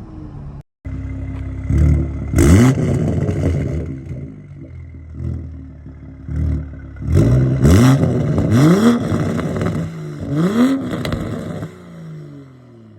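Toyota Supra A90 with an RK Titanium exhaust being revved in four quick blips, each rising in pitch and falling back, with crackles near the top of each rev. It settles and fades near the end.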